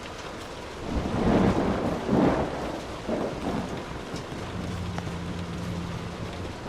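Steady rain hissing, with a roll of thunder coming in about a second in. The thunder swells in two or three loud rumbling surges, then dies away.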